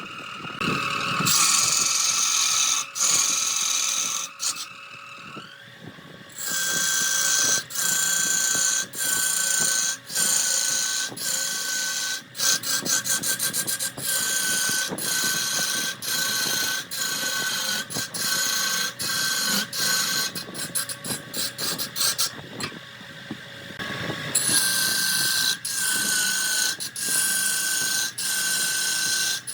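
Wood lathe turning a jackfruit log under a cutting tool: a steady machine whine and a hiss of cutting, with regular knocks a little more than once a second. The cutting hiss stops briefly twice.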